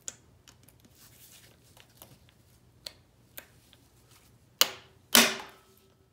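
Scattered light clicks and taps of hand tools on metal engine parts, then two sharp metallic clanks about half a second apart near the end, the second leaving a short ringing tone.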